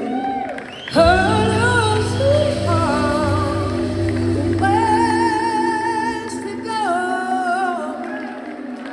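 Live rock band playing, with a voice singing long held, wavering notes over bass and guitar.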